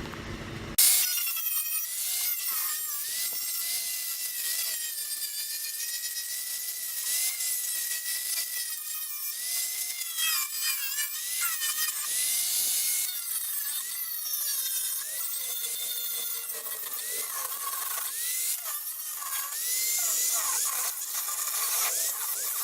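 Handheld rotary power tool abrading the steel of the wheel well, stripping off flaking rubberized undercoating. The motor's whine dips and rises as it is pressed onto the metal, over a continuous scraping hiss. It starts abruptly about a second in.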